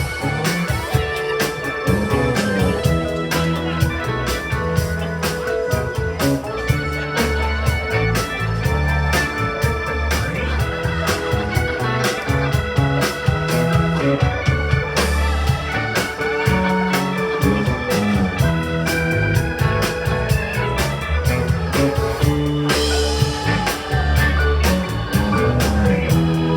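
Rock band playing, with an organ holding sustained chords in the lead over a steady drum kit with cymbals and a bass line.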